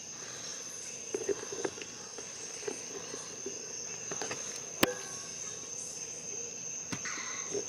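Steady high-pitched chirring of crickets, an outdoor insect chorus, with a few scattered clicks and knocks over it; the sharpest click comes about five seconds in.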